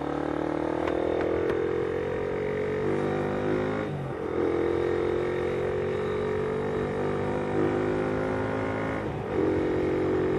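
Motorcycle engine pulling away and accelerating. Its pitch climbs steadily and drops sharply twice, about 4 and 9 seconds in, as it shifts up through the gears.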